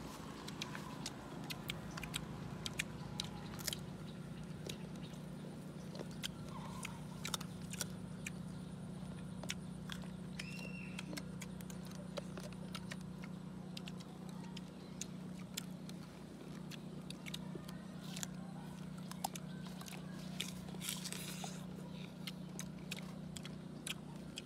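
People chewing and biting crisp slices of green star fruit close to the microphone, with irregular crunches, over a steady low hum.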